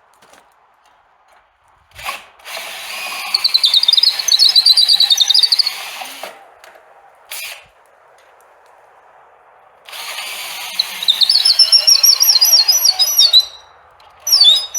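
Cordless drill boring holes with a long bit, run twice for a few seconds each with a wavering squealing whine as the bit cuts. After the second run it stops and the battery is dead, with a short click or clatter in between and at the end.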